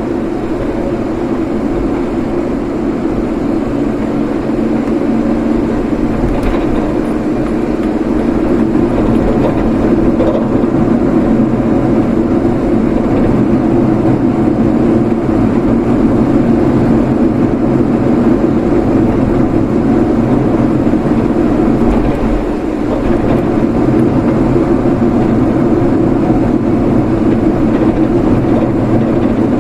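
A moving vehicle's steady engine and road noise while driving, growing a little louder about 8 seconds in and dipping briefly about 22 seconds in.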